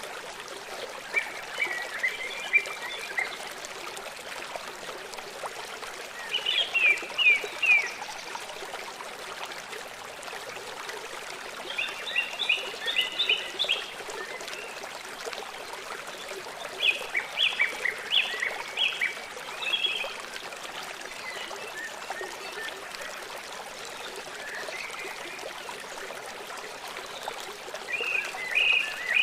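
Birds chirping in short phrases of quick high notes, about every four to six seconds, over the steady rush of flowing water.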